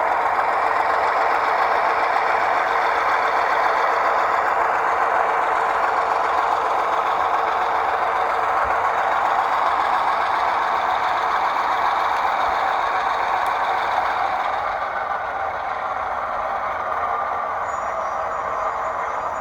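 Diesel locomotive sound: a steady, loud rushing noise that drops a little about fourteen seconds in.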